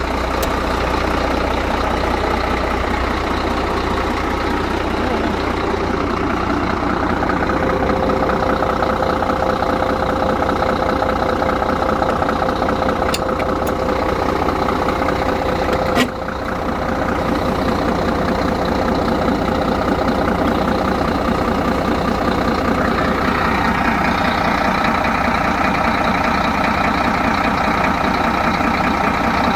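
Scania 114 380 truck's 11-litre straight-six diesel engine idling steadily, with a single sharp click about halfway through.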